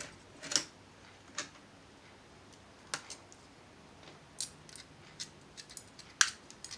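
Scattered small clicks and taps of a screwdriver and plastic laptop parts being handled during disassembly, the sharpest about half a second in and again about six seconds in.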